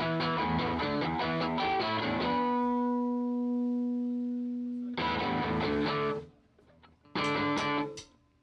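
Electric guitar played through an amplifier with effects. A quick flurry of notes is followed by a single note held and ringing for a couple of seconds, then two short bursts of playing with a brief pause between them.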